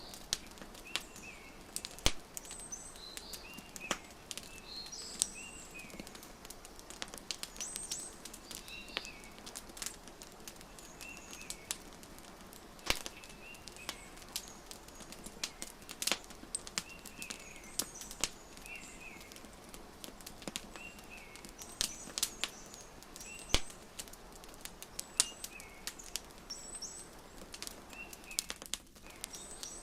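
Wood fire crackling, with irregular sharp pops that are the loudest sounds, over small birds chirping in short repeated calls every second or two.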